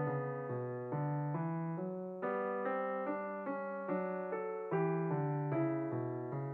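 Background piano music: a gentle melody of single notes and chords struck about twice a second.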